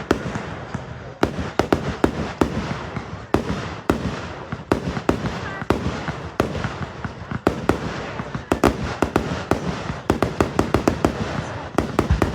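Aerial fireworks display: a steady run of sharp bangs at irregular spacing, thickening into a rapid crackling cluster from about eight to eleven seconds in, over a continuous low rumble of echoing bursts.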